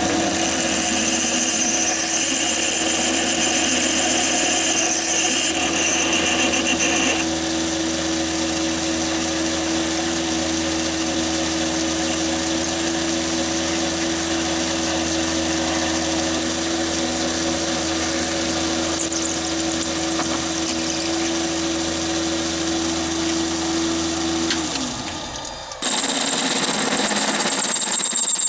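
Chinese mini lathe running steadily with a high motor whine, then winding down and stopping about 25 seconds in. A second later a machine starts up again with a different high-pitched whine.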